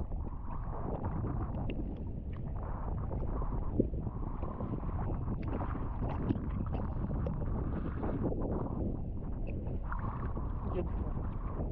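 Choppy sea water sloshing and splashing right at a handheld action camera as a swimmer moves through strong waves, with wind buffeting the microphone. A steady low, muffled wash broken by small sharp splashes.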